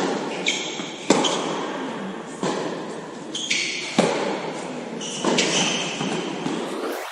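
Tennis rally: sharp racket strikes on the ball and ball bounces, about one every second to a second and a half, with echo after each hit.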